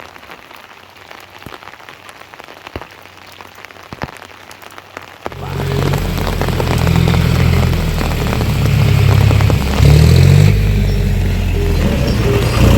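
Steady rain with scattered drop clicks. About five seconds in, loud music with a deep bass line cuts in abruptly and covers the rain.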